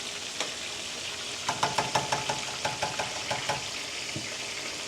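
Chicken wings frying in hot oil: a steady sizzle, with a run of quick clicks for about two seconds near the middle.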